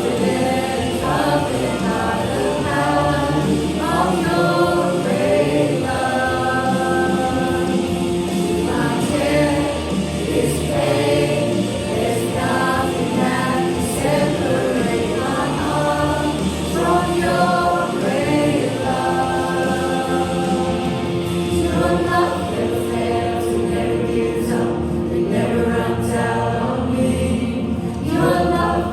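Church worship singing: a group of voices singing a worship song, with held notes, over a band.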